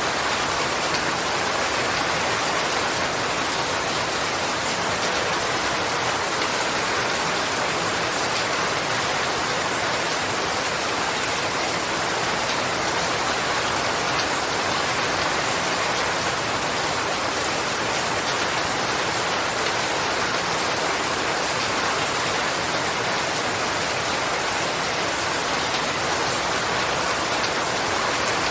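Steady rain falling on a surface, an even hiss with fine pattering detail and no let-up.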